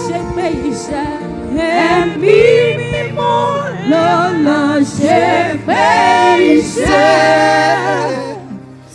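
Yoruba gospel praise song sung by several voices over steady held low notes, fading out near the end.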